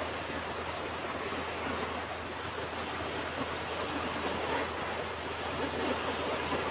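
Ocean surf washing onto a beach, a steady rushing wash of breaking waves.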